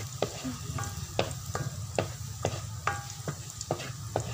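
Chopped garlic and onions sizzling in oil in a wok, nearly browned, while a wooden spatula stirs them, scraping and knocking against the pan about two to three times a second.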